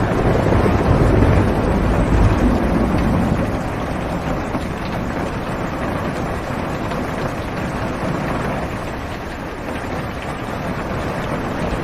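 Heavy rain drumming steadily on a car's roof and windows, heard from inside the car. A low rumble of thunder swells over the first few seconds and fades.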